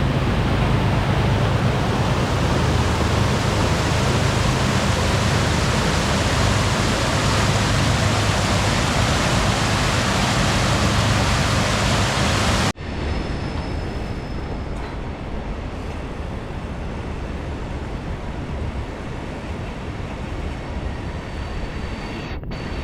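Steady wind rush on the microphone of a moving bicycle, strongest in the low end. It drops abruptly to a quieter, steady rush about 13 seconds in.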